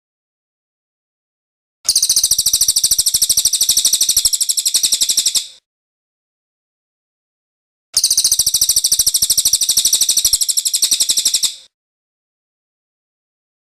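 Cililin bird singing its rolling trill ('ngerol'): a rapid run of evenly repeated high notes, twice, each bout about three and a half seconds long with a silent gap between.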